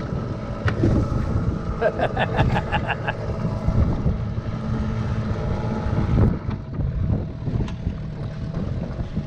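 Wind buffeting the microphone over the steady low drone of a catamaran's engine, with a short run of rapid pulses about two seconds in.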